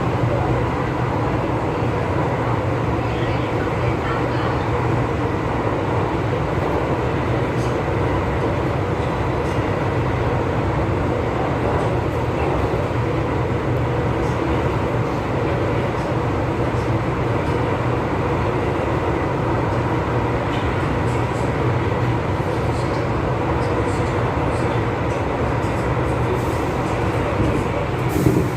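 MTR East Rail Line MLR (Metro-Cammell) electric train running steadily on the line: a continuous rumble of wheels on rails and running gear, with a faint steady whine. A single louder knock comes near the end.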